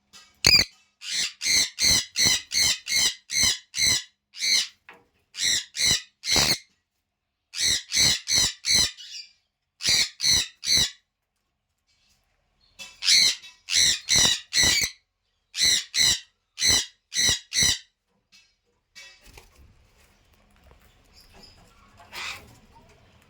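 Parrot calling in a long series of short, repeated squawks, coming in quick runs of three to seven with short gaps between, then stopping about three quarters of the way through.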